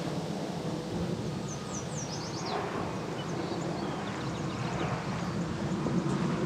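Wild birds calling: a quick run of high chirps stepping down in pitch about two seconds in, then fainter scattered chirps, over a steady low rumble.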